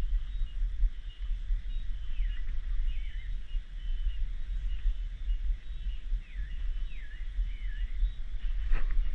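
Rainforest ambience: cicadas keep up a steady high drone while a bird gives a few short whistled calls, each dipping down and back up in pitch. Under it runs a low rumble, and a single sharp click comes just before the end.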